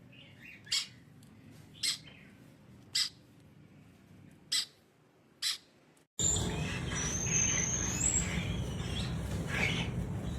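Parrot giving short, sharp squawks, five of them about a second apart. Then an abrupt cut to louder steady background noise with a high whistle and a few chirps.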